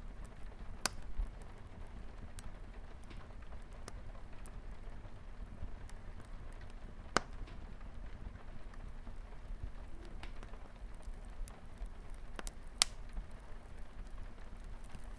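Light rain pattering steadily on a window, with a wood fire crackling in sharp, scattered pops; the loudest pops come at about 1, 7 and 13 seconds in.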